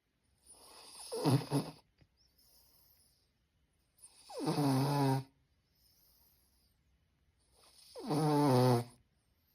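Pug snoring in its sleep: three loud snores, roughly every three and a half seconds, with softer breaths between them.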